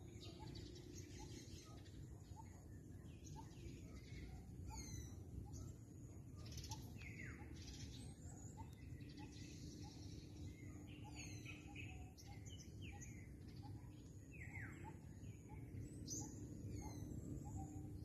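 Birds chirping and calling, with short chirps and quick falling whistles throughout, over a faint steady low rumble.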